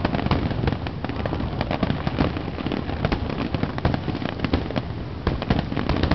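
Fireworks finale: many aerial shells bursting together, a fast continuous run of overlapping bangs and sharp crackling pops.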